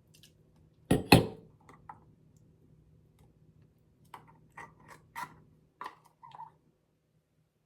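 Kitchen handling sounds: two sharp knocks about a second in, then several light clinking taps.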